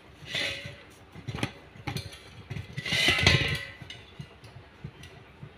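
Metal hose fittings and a refrigerant gas cylinder being handled and connected: scattered clinks and knocks, with two louder rustling, scraping swells, one about half a second in and a longer one around three seconds in.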